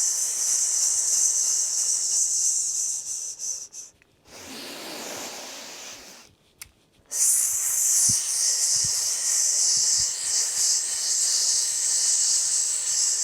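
A person exhaling a long, steady 'sss' hiss through the teeth: the qigong lung healing sound. She takes a breath in about four seconds in, then starts a second long hiss about seven seconds in.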